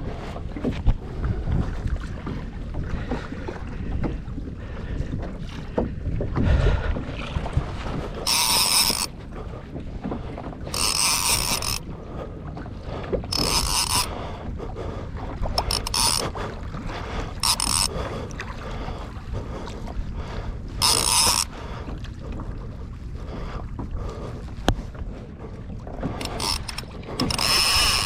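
Fishing reel buzzing in about seven short bursts, the drag giving line as a hooked trout runs while it is being played. Under it, steady wind on the microphone and water against the kayak.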